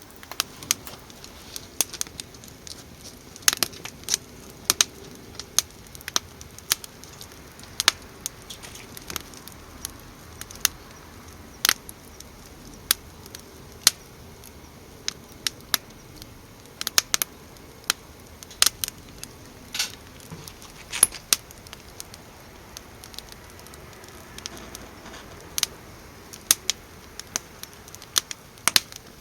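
Wood fire crackling: irregular sharp pops and snaps, several a second at times, over a low steady hiss.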